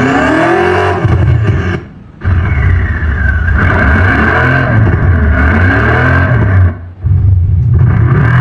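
Synthetic engine-and-exhaust sound from a Tesla Model 3's add-on Thor active sound system, revving up and down. It drops out briefly about two seconds in and again near the end.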